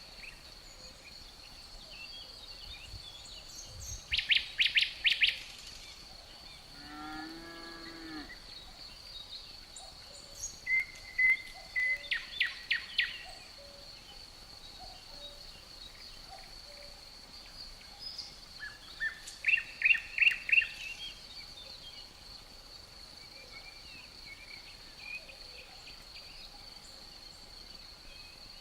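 Outdoor nature ambience: an insect keeps up a steady high-pitched drone while a songbird sings three short bursts of rapid notes. About seven seconds in, a cow gives one short moo.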